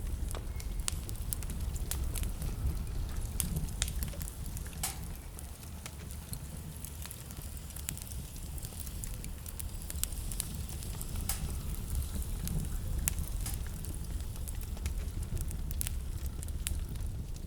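Wood fire crackling with irregular sharp pops and snaps, over a steady low rumble of blizzard wind.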